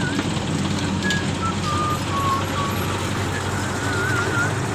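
Mini tractor engine running steadily, with short high whistling and warbling tones repeatedly over it.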